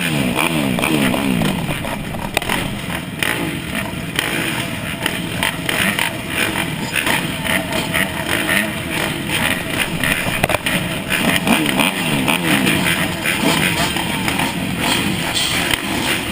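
Dirt bike engine revving hard through the gears, its pitch climbing in repeated rising sweeps, over a steady rushing noise.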